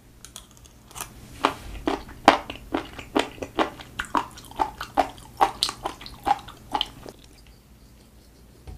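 Close-miked chewing of raw spoon worm (penis fish): a run of sharp chewing clicks, about three a second, that stops about seven seconds in.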